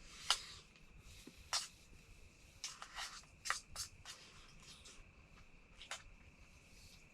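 Scattered light clicks and taps of eating utensils against dishes during a meal, about seven in all, the sharpest one just after the start, over a faint steady high-pitched tone.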